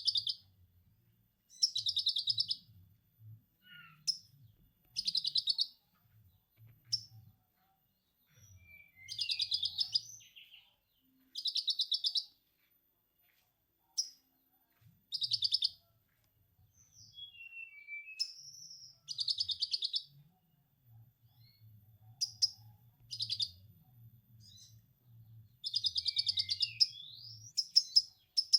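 Caged konin bird singing lovebird-style 'ngekek' chatter: repeated bursts of rapid, high chattering about a second long, a few seconds apart, with short single calls and little whistled glides in between.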